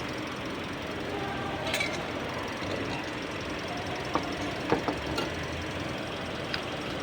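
Toyota Vios engine idling steadily, kept running during a battery swap, with a few sharp clicks and knocks over it, the loudest about two-thirds of the way in.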